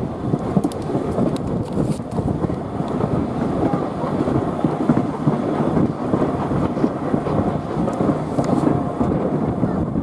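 Steady rumble of a railway carriage running along the track, heard from on board, with a few faint clicks from the wheels and rails.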